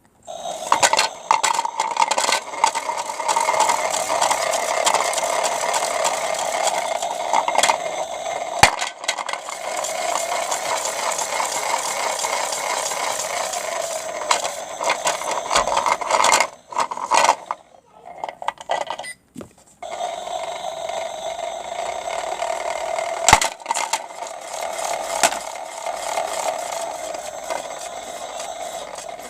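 Battery-powered toy washing machine running with bricks tumbling in its drum: a steady small-motor whine under continuous rattling and clicking. It cuts out briefly in a few stutters about two-thirds of the way through, then runs on again.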